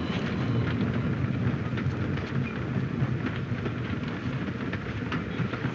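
Railway carriage in motion heard from inside the compartment: a steady low rumble with faint light clicks now and then from the running gear.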